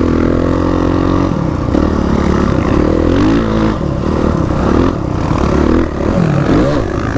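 Dirt bike engine revving under load, held steady for about the first second, then rising and falling in pitch several times as the throttle is worked.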